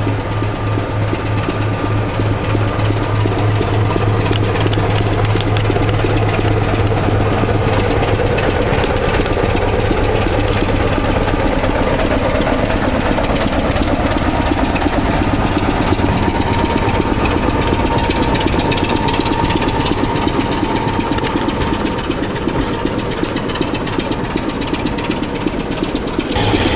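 Diesel locomotive engine running steadily with a low throb.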